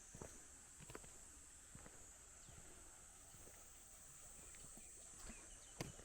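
Near silence: a faint steady high-pitched insect drone, with a few soft knocks, the loudest one near the end.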